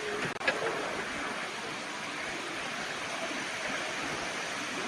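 Steady heavy rain, an even rushing hiss, with one short sharp sound about half a second in.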